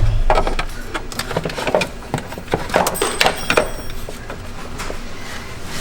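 A run of irregular clicks and knocks as metal parts and tools are handled while a battery mount is fitted in place.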